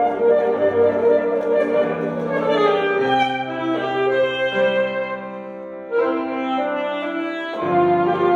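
Saxophone and piano playing together, the saxophone in long held notes over piano. The music thins briefly about six seconds in, then a fuller entry comes near the end.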